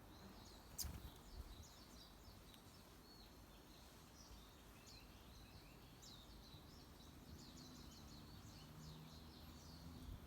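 Faint, high, rapid chirping of small wild birds, many short notes in quick succession, with a single sharp click about a second in.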